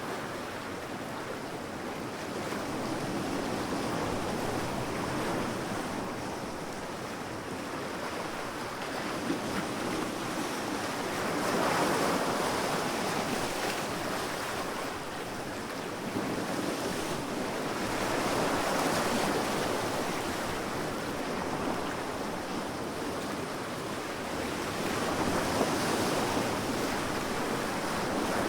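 Sea waves washing onto a sandy beach, a continuous surf hiss that swells as each wave breaks and ebbs as it draws back, about every seven seconds.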